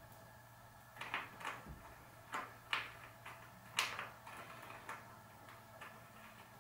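Irregular sharp clicks and taps of small metal bicycle parts being handled and fitted into a greased bottom bracket shell, about eight of them, the loudest a little before the middle, over a faint steady hum.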